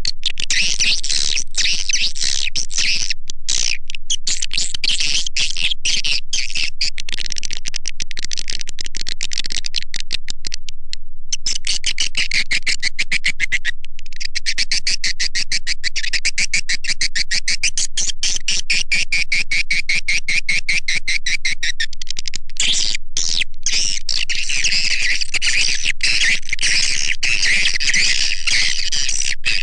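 Recorded swiftlet lure call: a dense, fast, unbroken twittering of many edible-nest swiftlets, with a few short breaks. It is played to attract swiftlets into a swiftlet house.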